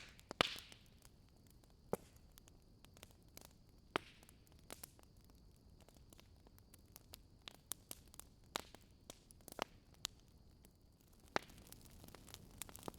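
Wood fire crackling, with irregular sharp pops and snaps over a low hiss, a few of the pops louder than the rest.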